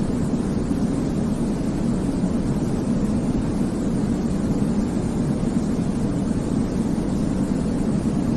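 Steady white-noise sleep track for babies: an even, deep rumble with little hiss and no changes.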